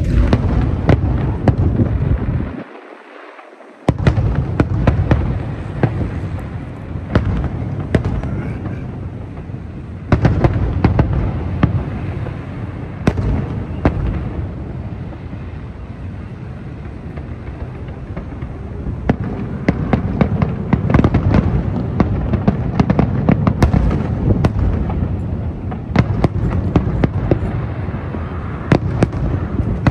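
Fireworks display: a dense run of bangs and crackling over a continuous low rumble of bursts, dropping away briefly about three seconds in.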